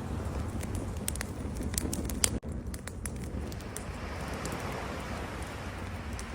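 Campfire crackling, with scattered sharp pops over a steady low rumble. About two and a half seconds in, the sound cuts out for an instant. From about four seconds a soft, even hiss swells in under the crackle.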